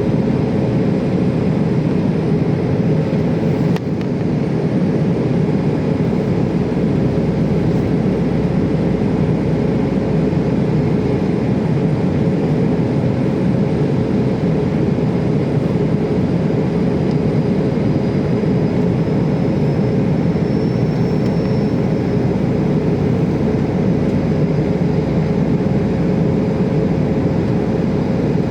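Passenger aircraft cabin noise in flight: a steady, loud rumble of engines and airflow with a constant hum, unchanging throughout.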